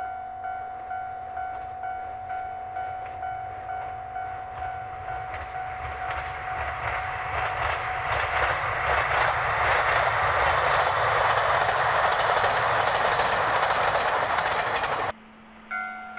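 Level-crossing warning bell ringing about twice a second as a train approaches and passes with rising rail noise and wheel clatter. The train noise is loudest in the last third, drowns the bell, and cuts off abruptly; the bell is heard again just before the end.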